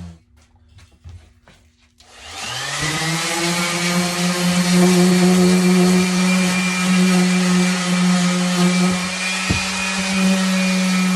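Electric orbital sander falling quiet for about two seconds with a few light ticks, then switched on, spinning up and running steadily on wood.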